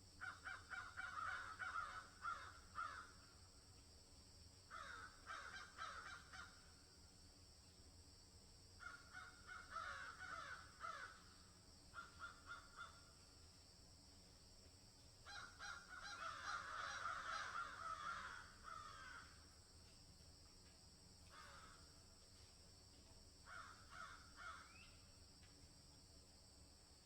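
Crows cawing in repeated bouts of harsh calls, with short pauses between bouts, over a steady high-pitched insect drone.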